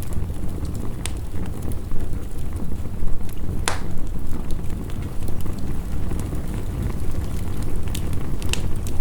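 Steady heavy rain with a deep rumble, over which a wood fire crackles with a few sharp pops, the loudest a little before halfway and two more near the end.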